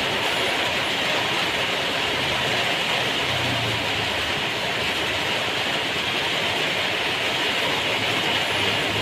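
Heavy rain falling: a steady, unbroken hiss.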